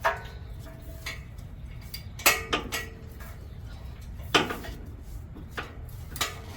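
Metal hand tools clanking: a spark plug socket and ratchet knocking against metal as they are worked onto a spark plug. There are several sharp metallic clanks a second or two apart, each ringing briefly.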